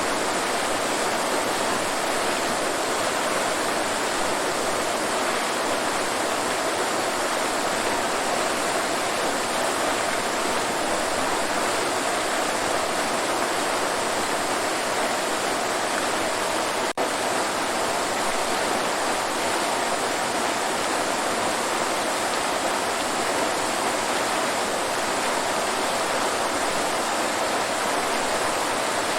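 Waterfall rushing steadily, an even roar of falling water with one momentary dropout about halfway through.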